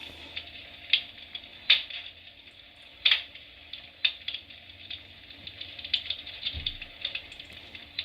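Electric fireplace's built-in crackling-logs sound effect playing through its small speaker: irregular pops and crackles, a few a second, with a faint low hum beneath.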